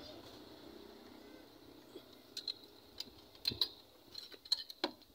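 Small metal parts and tools clinking: a scatter of light, sharp metallic clicks and taps, several each second, starting about two seconds in, as a motorcycle's exhaust cover is fitted.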